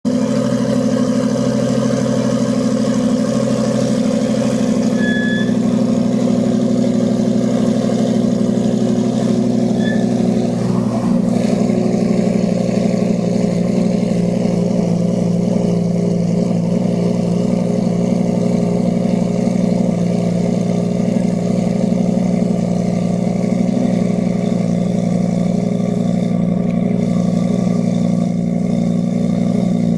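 Lamborghini Gallardo V10 idling steadily through an aftermarket titanium exhaust, a constant deep exhaust note with no revving.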